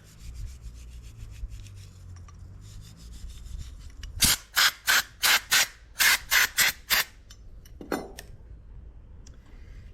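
Hand scrubbing on the metal hold-down strap for the backhoe's fuel tank: faint rubbing at first, then a run of about ten sharp, rasping strokes at roughly three a second.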